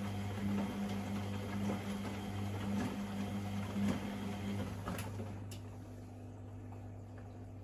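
Privileg Sensation 952 S top-loading washing machine running with a steady hum, then its motor stops a little under five seconds in, followed by two short clicks; a low hum carries on.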